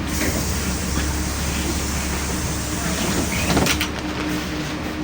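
Passenger doors of a LiAZ-5292 city bus closing. A hiss of air starts suddenly and ends in a knock about three and a half seconds in, over the low hum of the bus's engine idling.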